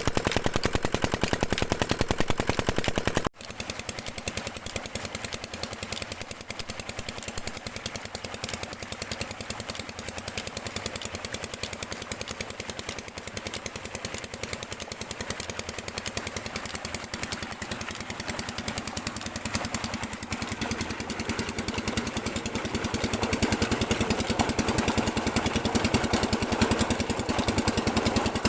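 Chinese R180 single-cylinder diesel engine running steadily under load on a tube-well pump, with a rapid, even train of exhaust beats. It breaks off for an instant about three seconds in and comes back quieter, then grows louder over the last several seconds.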